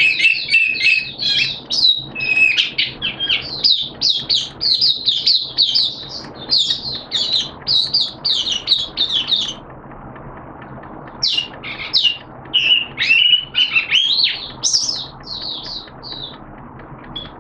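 Caged songbird singing a rapid, chattering run of sharp chirping notes. It breaks off briefly about ten seconds in, then resumes with shorter phrases that fade near the end.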